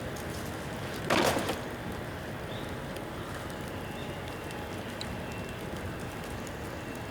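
Bamboo bonfire burning with a steady hiss and scattered small crackles, with one loud burst about a second in.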